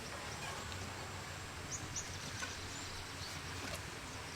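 Outdoor background noise with scattered short, high bird chirps, a few of them gliding down in pitch.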